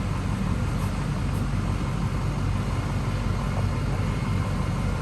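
Box truck's engine running steadily, a constant low hum with no change in speed.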